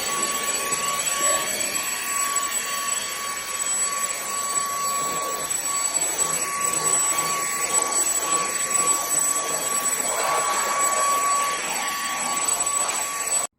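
Fochai cordless stick vacuum cleaner running, a steady rushing motor noise with a high-pitched whine, which cuts off suddenly near the end.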